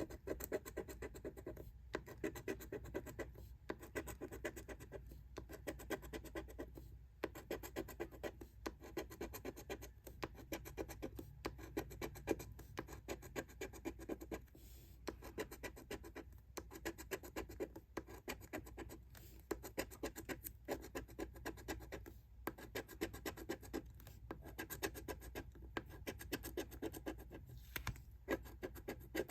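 Scratching the coating off a lottery scratch-off ticket: quick rapid strokes in short runs, broken by brief pauses every second or two.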